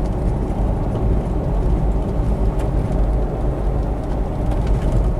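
Steady low rumble of a car driving along a highway, engine and tyre noise heard from inside the cabin.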